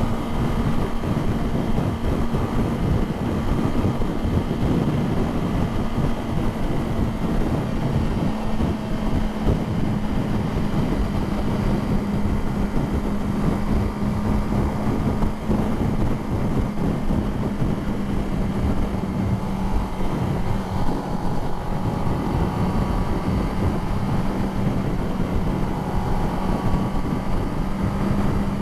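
Kawasaki ZX-10R's inline-four engine running at a steady cruise, its note drifting slowly lower toward the end, under heavy wind noise on the helmet microphone.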